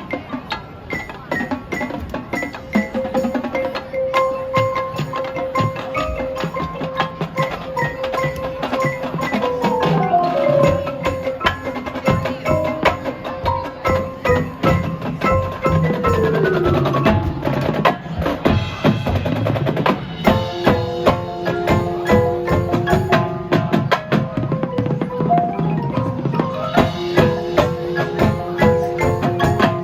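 High school marching band playing its halftime show: the drumline strikes rapidly under long held wind notes, with mallet percussion. About a third of the way in, the held notes slide down in pitch, and the second half grows busier, with quick runs of short notes.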